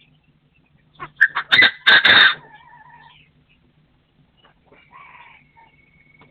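Partridge calling: a quick run of loud, harsh notes about a second in, trailing into softer whistled notes, then another short call near the end.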